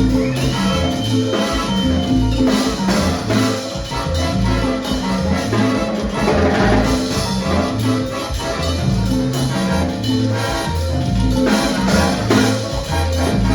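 A salsa band playing live, with a steady repeating bass line under dense horn and keyboard parts. A high held note sounds in the first couple of seconds.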